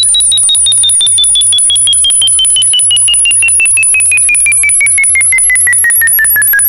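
Synthesized frequency track of rapidly pulsing electronic tones: one tone slides slowly down in pitch, two very high steady tones shimmer above it, and a low pulsing beat and short scattered beeps sit beneath.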